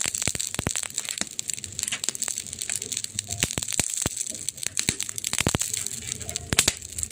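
Wood fire crackling: dense, irregular pops and snaps over a steady hiss, with a few louder snaps past the middle.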